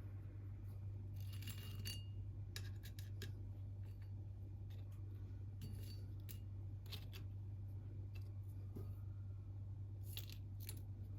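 Scattered small clicks, taps and light scrapes of objects being handled by hand, in a few short clusters, over a steady low hum.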